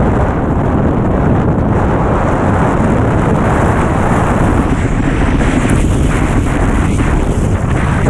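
Strong wind buffeting the microphone in a loud, steady rumble, with water rushing beneath, while out windfoiling in high wind.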